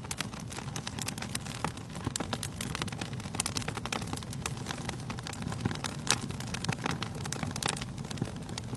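Wood fire burning in a fireplace: a steady low rush of flame with dense, irregular sharp crackles and pops from the burning logs.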